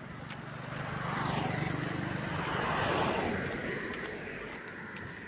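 A vehicle passes by on the road, getting louder, then fading away.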